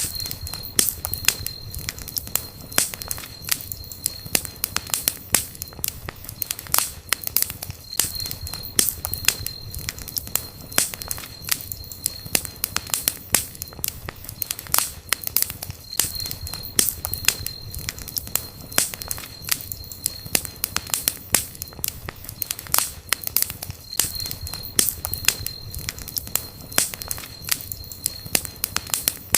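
Campfire burning: wood crackling and popping in many sharp snaps over a low steady rumble of the flames. A faint high whine comes and goes about every eight seconds.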